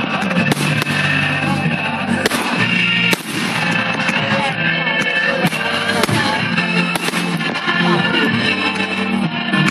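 Fireworks going off in a string of sharp bangs at irregular intervals, over loud music.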